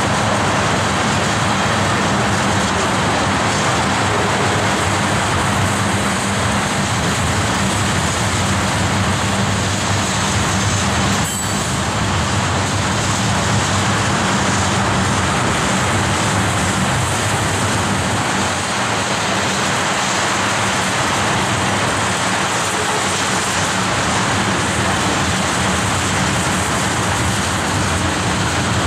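Steady loud rolling noise of a long train of railroad tank cars passing close by, steel wheels running on the rails, with one brief click about eleven seconds in.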